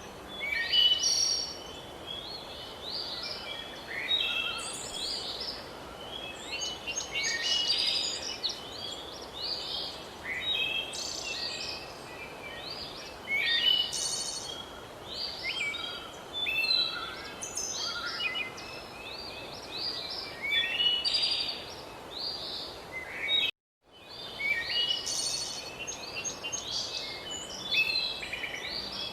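Several birds singing and chirping at once, short overlapping calls and trills over a steady background hiss. The sound cuts out completely for a moment about three-quarters of the way through, then resumes.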